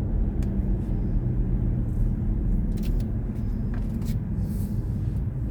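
Low rumble of road and tyre noise inside the cabin of a BMW i4 M50 electric car, easing off gradually as the car slows for a red light, with a few faint light clicks.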